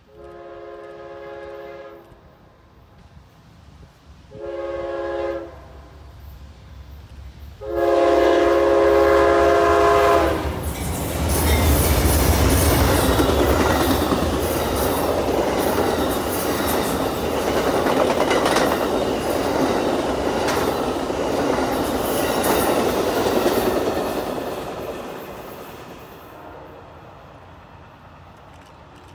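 Amtrak passenger train's multi-chime locomotive horn sounding three times as it approaches: a long blast, a short one, then the longest, loudest one. The train then passes close by, a loud rumble with a quick run of wheel clacks over the rails, fading away a few seconds before the end.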